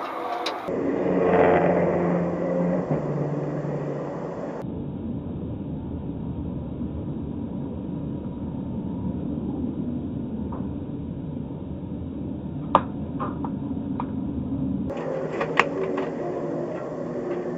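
Car engine and road noise from a series of short clips: first an engine with a pitch that steps down, then a long, steady low rumble, broken by a few sharp clicks or knocks about 13 seconds in.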